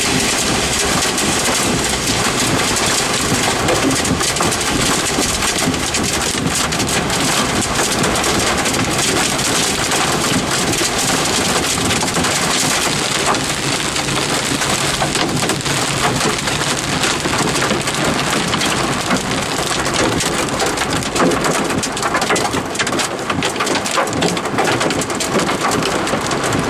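Heavy thunderstorm rain driven by strong winds, a loud, steady wash of noise with many small sharp hits throughout.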